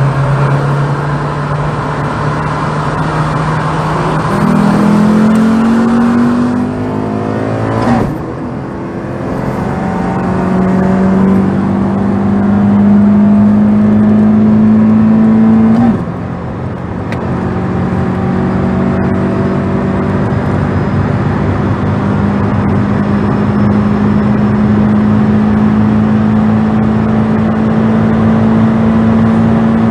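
Car engine heard from inside the cabin, pulling hard under full throttle: the revs climb steadily, with two upshifts about 8 and 16 seconds in, each dropping the revs before they climb again.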